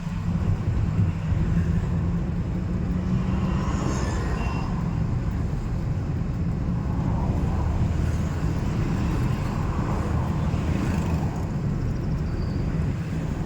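Car driving on city roads: steady low rumble of engine and tyres, with faint passing traffic sounds.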